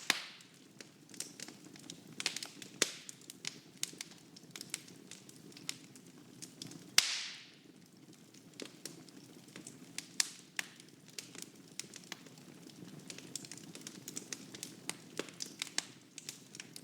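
Wood fire burning in a fireplace: a low steady rush of flame under frequent, irregular crackles and snaps. A loud pop about seven seconds in is followed by a short hiss that fades within a second.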